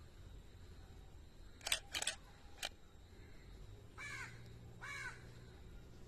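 Three sharp clicks, then a bird calling twice, two short calls less than a second apart.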